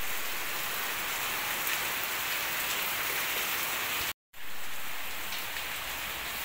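Heavy rain pouring down, a dense steady hiss. It cuts out for a moment about four seconds in, then resumes.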